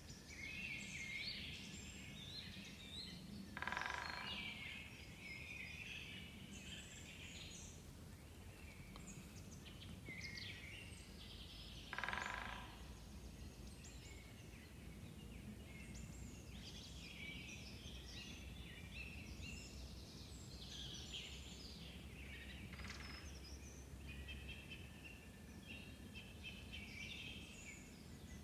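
Woodland birdsong: many small birds chirping and trilling at a low level. Three louder, short, harsher calls stand out about 4, 12 and 23 seconds in, over a faint low rumble of background noise.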